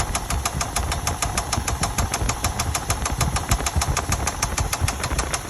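2000 Chevy Tahoe Limited's 5.3-litre V8 idling with a rapid, even ticking, about ten ticks a second: the unexplained engine noise the owner is asking for help with.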